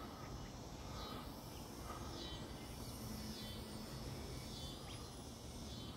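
Faint outdoor evening ambience: a low hiss with a few quiet high sounds that rise and fall, about once a second.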